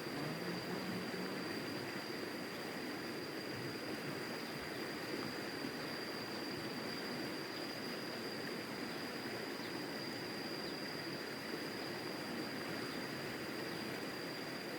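Steady rushing of flowing river water, with a continuous thin high whine over it.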